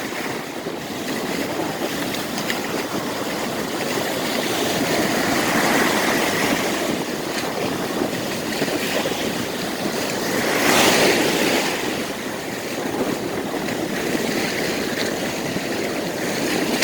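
Rough ocean surf: waves breaking and washing in a steady rush, with one wave crashing louder about eleven seconds in.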